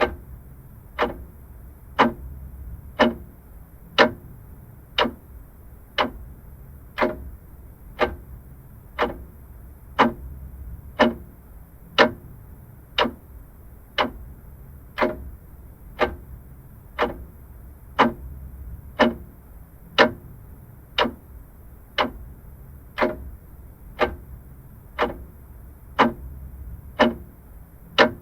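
Vintage mechanical clock ticking steadily, one sharp tick a second, over a faint low hum.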